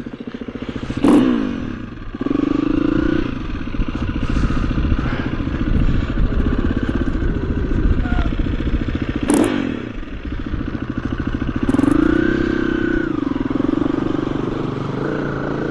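KTM EXC-F 350 dirt bike's single-cylinder four-stroke engine running under the rider, the revs picking up twice. A few sharp knocks cut through it.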